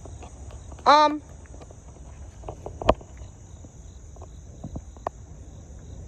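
Steady high-pitched insect chorus, typical of crickets or katydids. About a second in comes a brief, loud pitched sound like a short vocal call, and near three seconds a single sharp click.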